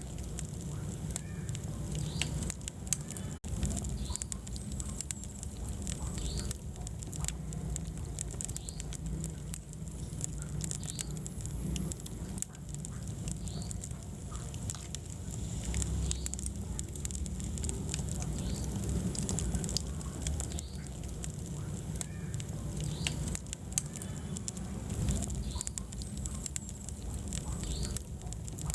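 Wood fire burning in a fireplace, crackling with many sharp snaps and pops, several a second, over a steady low rumble of the flames.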